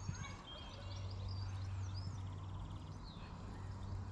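Small birds singing: scattered short whistled chirps, with a fast trill about two seconds in, over a low steady hum.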